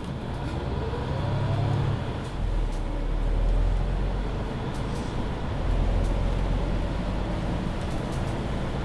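Mercedes-Benz Citaro C2 Hybrid city bus running under way, a steady low drivetrain rumble with a whine that rises in pitch over about the first second and a half as it pulls away.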